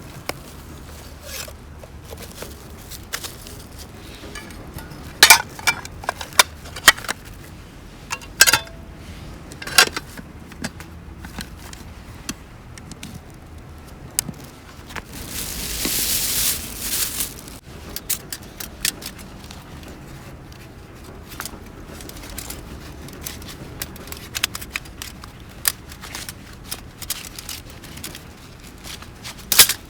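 Small wood fire crackling, with sharp metallic clinks, knocks and scrapes of camp cookware and stove being handled. There is a cluster of loud knocks about five to ten seconds in, and a hiss lasting about two seconds near the middle.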